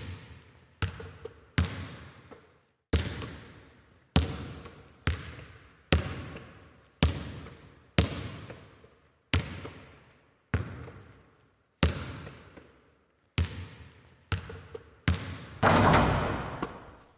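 A basketball dribbled on a court, bouncing about once a second, each bounce echoing as it dies away, with a few quicker bounces near the end. Then comes a louder, longer clatter lasting a second or two: the shot at the basket.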